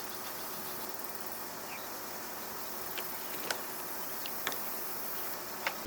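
Steady high-pitched insect chorus, like crickets or cicadas, with a few faint clicks about halfway through and near the end.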